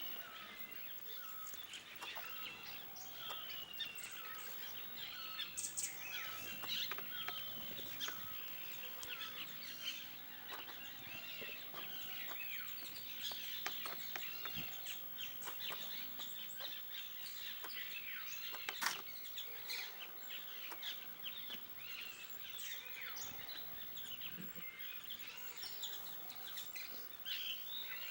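Several wild birds calling at once: a busy chorus of short, overlapping chirps and whistled notes, some gliding up or down. A single sharp click stands out about two-thirds of the way through.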